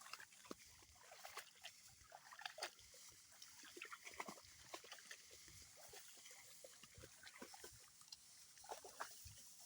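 Faint, irregular short scuffles and clicks of a dog at play, with the odd snuffling animal sound.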